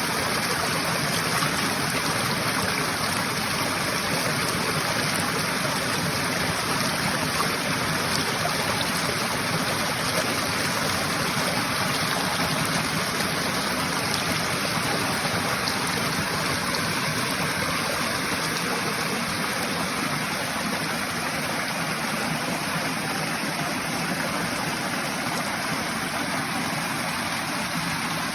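Steady rushing of a flowing mountain stream, an even unbroken sound of water.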